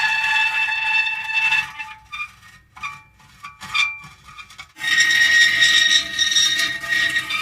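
Metal creaking: long, drawn-out squealing creaks, broken midway by a second or two of short creaks and clicks, then another long creak starting about five seconds in.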